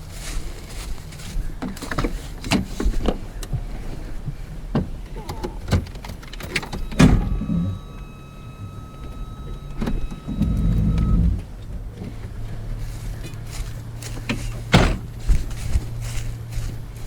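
Truck engine idling, with a string of sharp metallic clinks and knocks from handling a logging chain. About ten seconds in, the engine briefly runs louder for a second or so, then settles back to a steady idle.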